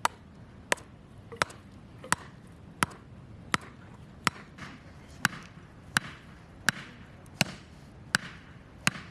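Chopping on a cutting board: sharp, evenly spaced blows at about one and a half a second.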